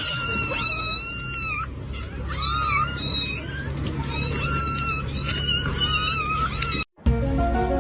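A cat meowing, several drawn-out high calls in a row that bend in pitch. About seven seconds in the sound cuts out briefly and music begins.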